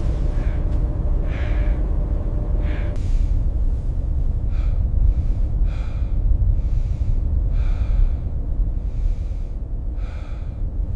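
A person gasping for breath, heavy laboured breaths about once a second, sounding exhausted. A steady low rumble runs underneath, and a steady hum stops about three seconds in.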